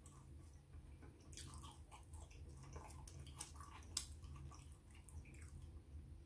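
A person eating chips close to the microphone: soft chewing and wet mouth clicks, with a sharper click about four seconds in, over a faint low steady hum.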